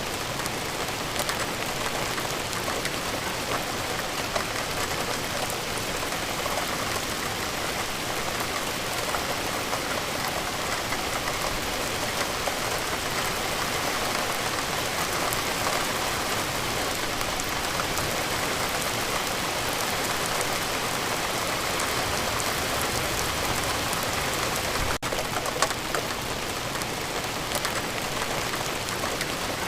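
Steady rain falling, a dense even patter of many raindrops hitting a surface, with a momentary dropout about 25 seconds in.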